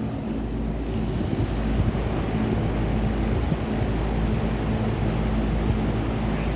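An air-conditioning condensing unit running: its compressors humming steadily under the rushing air of the condenser fan motor, which has just started. The fan's rush fills in about a second in.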